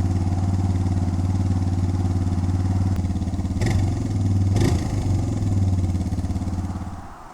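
Suzuki DR650 motorcycle's single-cylinder engine running steadily, with two short sharp sounds about a second apart midway, then shut off about seven seconds in.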